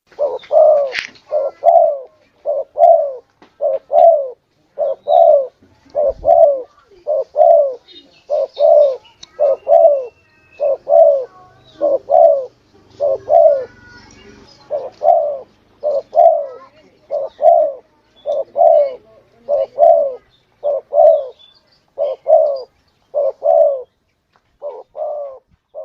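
Spotted dove (tekukur) cooing: a long, steady series of short coos, many in close pairs, about one note a second.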